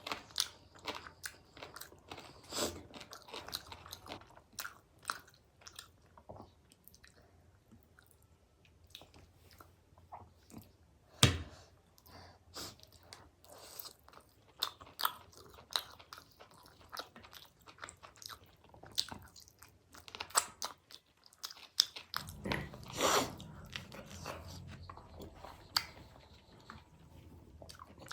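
A person biting and chewing food close to the microphone: an irregular run of short crunches and chewing sounds, with one sharp louder click about eleven seconds in and a longer, louder stretch of chewing past the twenty-second mark.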